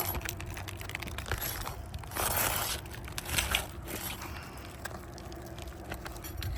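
Asphalt roof shingles being pried up and scraped while nails are pulled, with two short scraping, tearing bursts a couple of seconds in and scattered small clicks.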